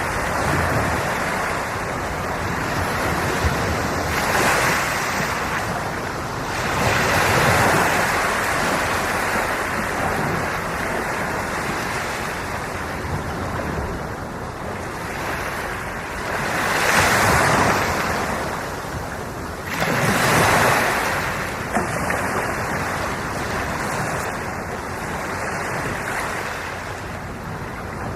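Sea waves washing in: a steady surf with about four louder surges as bigger waves break.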